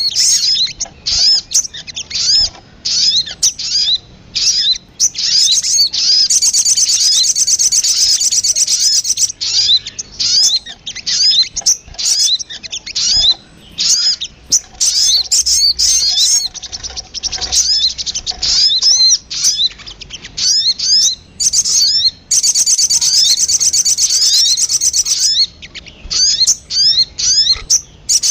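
Recorded lure call of a sogon (sogok ontong) bird: a rapid series of short, high, sweeping chirps, broken by two longer fast trills, about six seconds in and again past the three-quarter mark.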